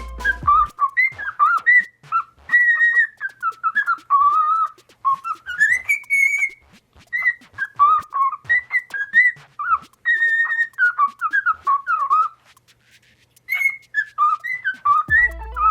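A parrot whistling a tune: a long run of short whistled notes that slide up and down, pausing for about a second around two-thirds of the way through. Background music cuts out just after the start and comes back near the end.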